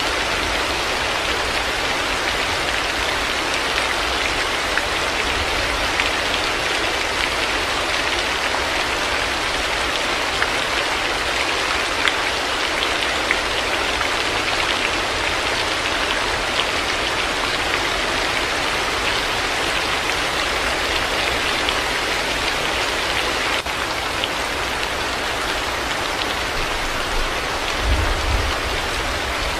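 Heavy rain falling steadily, a dense even hiss with scattered sharp drop ticks. A brief low rumble comes near the end.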